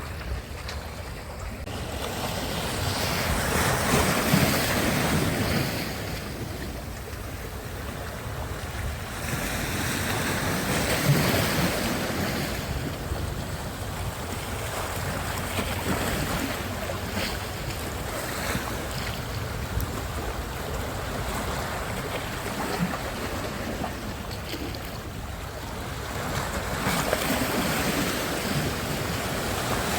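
Sea surf washing onto the shore in slow swells, louder about every several seconds as waves come in, with wind rumbling on the microphone.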